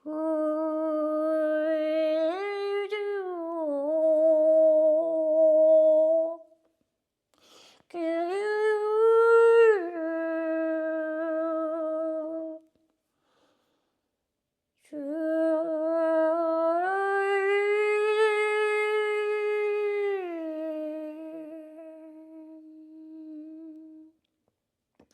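A single voice humming three long, wordless tones with short silences between them, as vocal toning in a light-language chant. Each tone holds a low note, steps up to a higher one for a second or more, and comes back down; the last fades out slowly.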